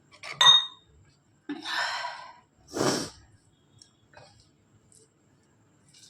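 Close-miked mouth eating sounds: three loud sucking slurps in quick succession, the first with a short whistling squeak.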